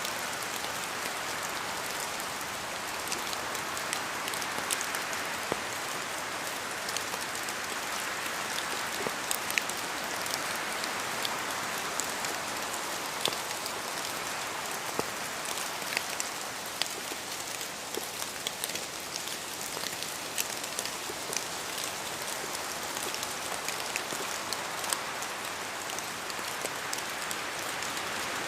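Steady rain falling in a forest: an even hiss with many scattered, sharp ticks of drops dripping from the trees.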